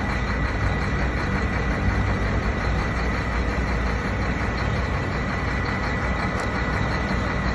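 An engine running steadily at a constant pace, with a deep low rumble and a thin steady high whine over it.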